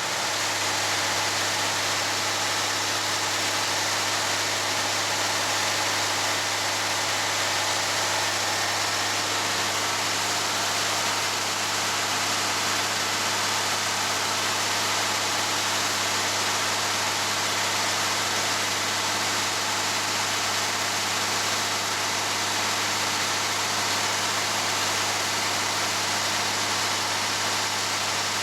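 Gleaner S67 combine harvester running steadily: an even, loud hiss of machinery and air over a steady low engine hum.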